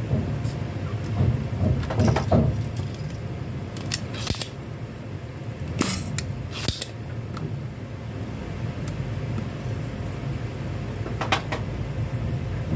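Scattered clicks and clatters of small hard objects being handled, a few sharp ones a couple of seconds apart, over a steady low rumble.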